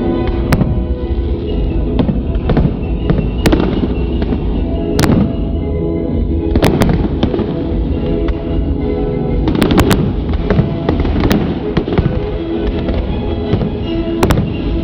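Fireworks bursting in a display: about a dozen sharp bangs, some single and some in quick clusters, over loud music playing throughout.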